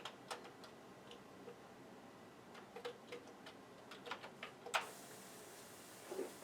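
Scattered light clicks and taps from floppy disks and the computer gear being handled, with one sharper click a little before the end.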